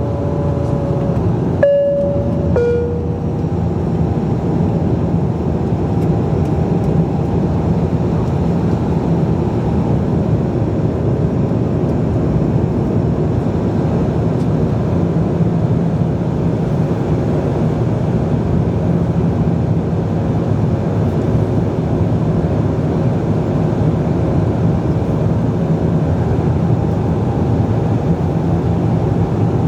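Steady cabin drone of a Bombardier Dash 8-Q400 in flight, its Pratt & Whitney Canada PW150A turboprops and propellers running. About two seconds in, a two-tone high-low cabin chime sounds once over the drone.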